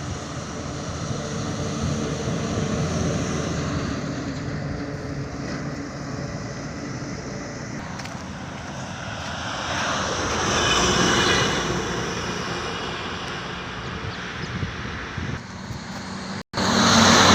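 Highway traffic: a truck engine running steadily, with a louder rush of a vehicle passing that swells and fades about ten to twelve seconds in. Near the end the sound cuts out for a moment and comes back louder.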